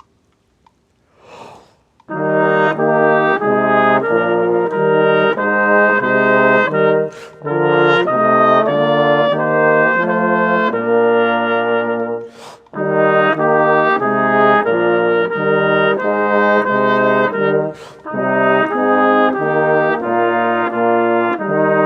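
Brass ensemble of trumpets and trombones playing a slow, chordal tune in held notes. It begins about two seconds in and goes in phrases, with brief breaks between them.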